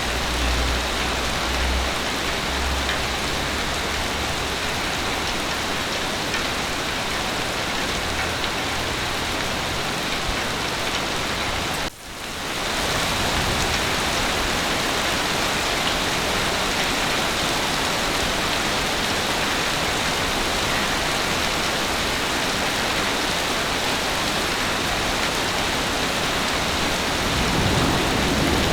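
Heavy rain falling steadily, with low rumbles of thunder in the first few seconds and again near the end. About twelve seconds in, the sound drops out for a moment and swells back.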